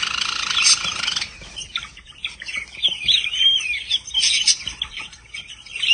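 Java sparrow (Java finch) calling: a dense burst of chattering chirps in about the first second, then a run of quick chips, short trills and gliding notes.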